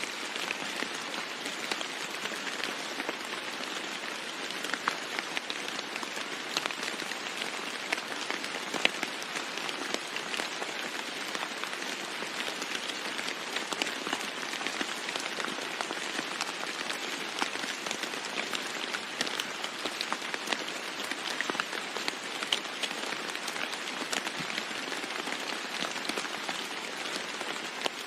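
Steady rain falling on a roof: an even hiss, scattered with sharp ticks of single drops striking.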